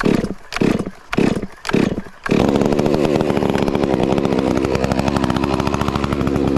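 Stihl MS 400 C two-stroke chainsaw being pull-started: a few short bursts as the starter cord is yanked, then the engine catches about two seconds in and runs steadily.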